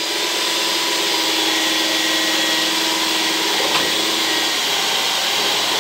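Electric drill running steadily, boring a hole with a blunt speed-bore (spade) bit.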